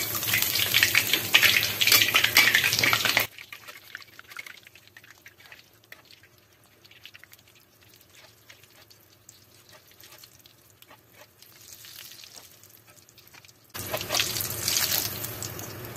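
An egg-and-breadcrumb-coated potato roll deep-frying in hot oil in a wok, sizzling loudly. About three seconds in the sizzle drops suddenly to a faint crackle, and near the end it is loud again.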